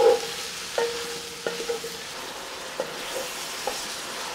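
Onions, bacon and sausage sizzling in margarine in a cast-iron Dutch oven as they brown, with a steady frying hiss. A utensil stirring the pot knocks against it several times, each knock ringing briefly. The loudest knock comes right at the start.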